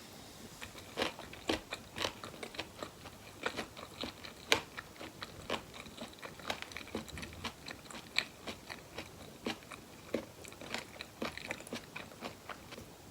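Close-miked chewing of spicy boneless chicken feet, with many sharp, uneven crunchy clicks and wet mouth sounds that start about half a second in and stop just before the end.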